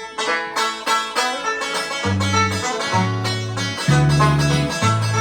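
Bluegrass band kicking off a song: a banjo picking fast rolls with guitar, and a bass coming in about two seconds in.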